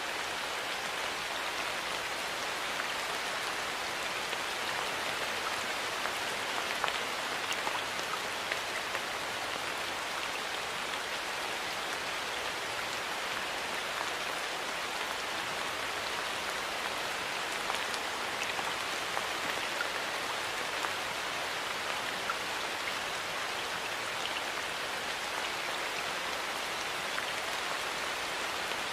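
Steady rain falling: an even hiss with scattered single louder drops.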